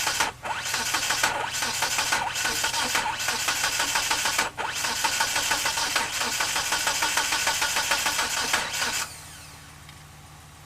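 The 1997 Mitsubishi Eclipse GSX's turbocharged 4G63 four-cylinder is cranked on the starter for about nine seconds with a steady rhythmic chug, twice briefly interrupted. It never catches and cuts off abruptly. This is the crank-no-start fault that the owner suspects is a timing problem with the cam angle sensor.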